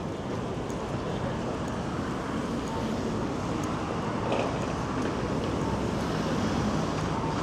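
City street ambience: a steady rumble of road traffic with faint, indistinct voices of passers-by.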